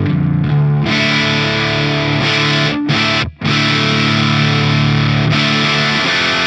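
Electric guitar through a Soldano SLO-100 clone tube amp boosted by an Ibanez TS9 Tube Screamer, playing heavily distorted, sustained chords. The sound breaks off sharply for a moment about three seconds in, then the chords ring again.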